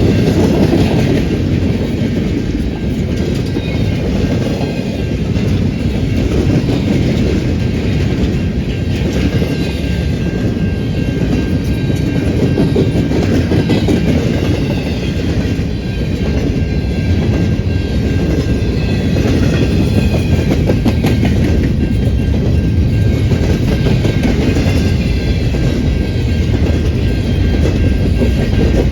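A train rolling steadily past, its wheels clattering continuously over the rail joints, with a faint steady high ring above the rumble.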